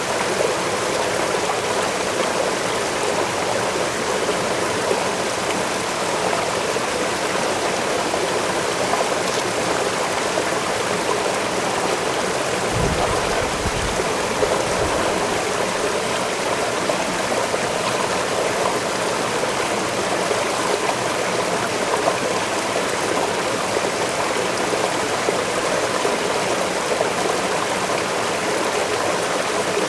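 Waterfall and stream rushing steadily, an even wash of falling and running water. A brief low rumble comes in about halfway through.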